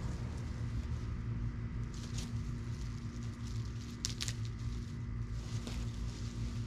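A steady low hum with a few brief crackling rustles, two of them near the middle.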